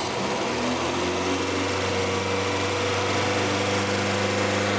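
Classic rear-wheel-drive Lada's engine, just started on a makeshift single-injector fuel injection in place of its carburetor, running and settling into a steady idle about a second in.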